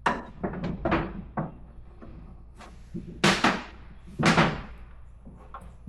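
A series of knocks and bangs, two louder, longer bangs near the middle.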